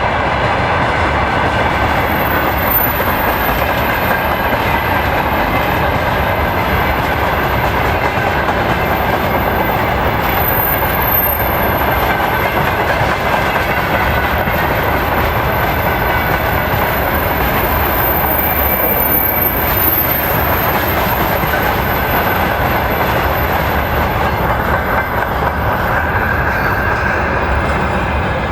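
Freight train rolling past: a steady loud rumble and rattle of steel wheels on the rails, with a thin high-pitched squeal of wheels over it.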